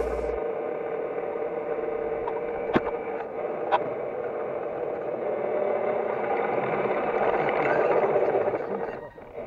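Steady hum of a small motor running, with two short clicks about a second apart and a brief drop in level near the end.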